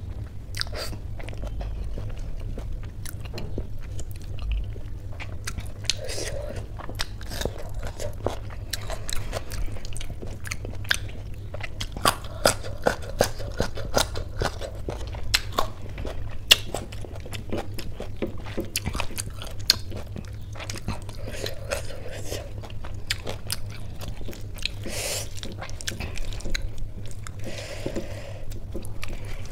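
Close-miked eating sounds: chewing and crunching of khichdi eaten by hand, with many sharp wet clicks and crackles throughout and a few louder ones around the middle.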